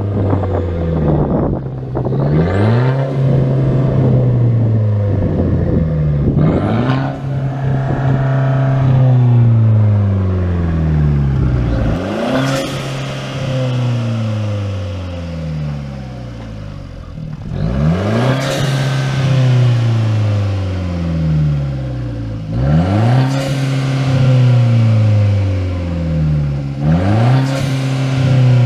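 2013 Dodge Dart Turbo's turbocharged 1.4-litre four-cylinder, running with a muffler delete, revved hard about six times. Each time the pitch climbs quickly and then falls slowly back toward idle.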